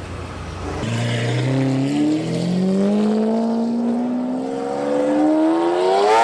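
A supercar engine revving up hard, its pitch climbing steadily and without a break for about five seconds, getting louder toward the end.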